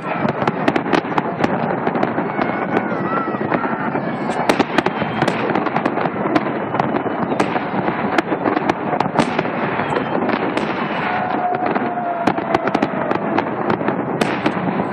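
Fireworks display going off: a rapid, continuous stream of overlapping bangs and crackles.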